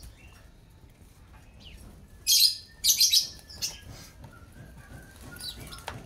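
Caged pijantung (spiderhunters) chirping. Two loud clusters of sharp, high calls come a little past two seconds in and around three seconds, with fainter scattered chirps around them.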